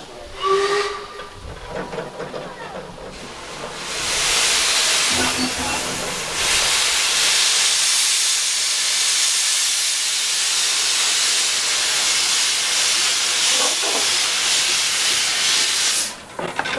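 Narrow-gauge steam locomotive letting off steam: a loud, steady hiss that starts about four seconds in and cuts off suddenly some twelve seconds later.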